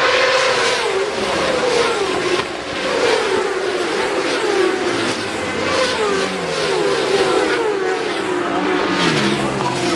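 Several superbikes racing past at high revs, their engine notes overlapping and falling in pitch as they go by.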